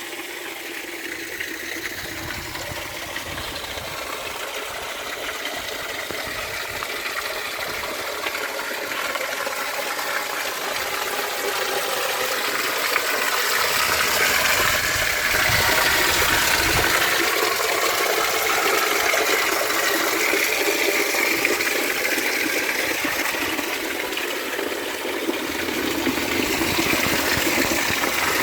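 Rushing mountain water, a steady noisy rush that grows louder over the first half and then holds.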